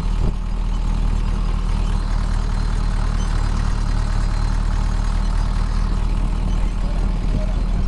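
Tractor engine running at a steady, even speed with a low drone.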